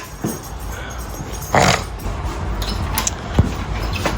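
A dog making one short, breathy, noisy sound about one and a half seconds in, over a steady low rumble.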